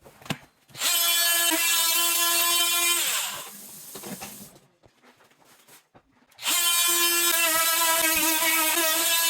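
A handheld power tool runs twice at a steady high pitch, first for about two seconds, then again from the middle on, winding down after each run.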